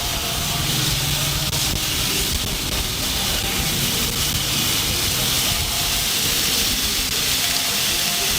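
Steady sizzling hiss of rice noodles and chicken stir-frying in a hot wok over a burner.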